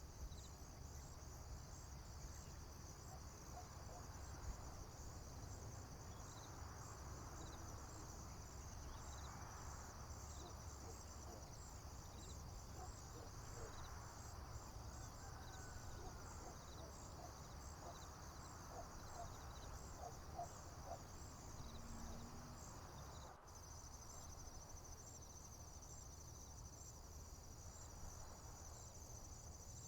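A faint field chorus of crickets chirping steadily in a high, pulsing trill, with a few scattered soft bird chirps and a low steady rumble underneath. About two-thirds of the way through there is an abrupt cut, after which the insect trill runs on at a finer, faster pulse.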